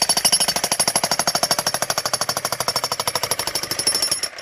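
Bosch jackhammer hammering into a cracked geode rock with rapid, even blows, stopping near the end.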